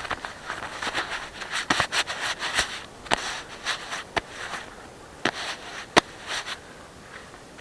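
Knife carving wood: irregular short scraping strokes of the blade shaving the wood, with a few sharper clicks, one standing out about six seconds in.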